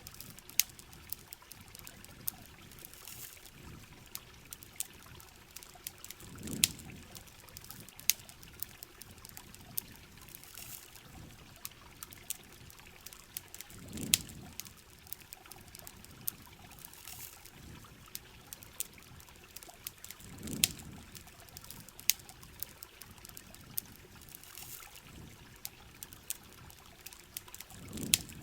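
Ambience of rain and trickling water with a crackling campfire: scattered sharp pops and ticks over a steady hiss, and a soft low swell about every seven seconds.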